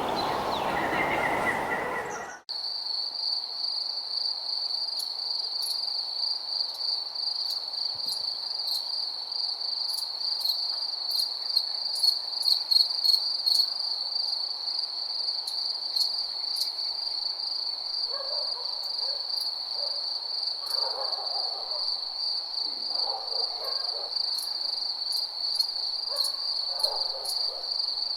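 Crickets chirping in a steady, high, shimmering trill, with a few soft lower calls over the last ten seconds. It opens with a couple of seconds of a different, noisier nature recording that cuts off abruptly.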